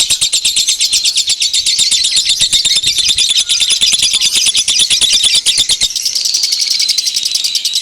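Dense, rapid chattering and trilling of small songbirds, played as a bird-lure recording, with a steady high note under the fast ticking calls; the sound thins a little about six seconds in.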